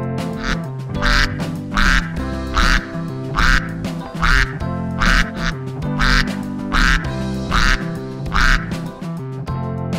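A duck quacking, about ten loud quacks at an even pace of a little more than one a second, over background music.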